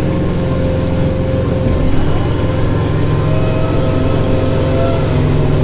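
Kubota diesel tractor engine running steadily at working speed while driving a rear-mounted snowblower that is clearing snow.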